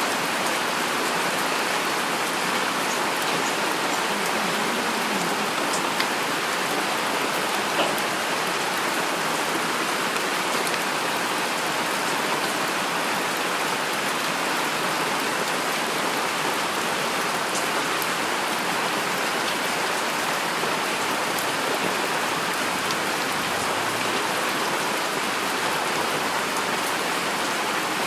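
Heavy rain falling steadily: a dense, even hiss with occasional sharper drop ticks.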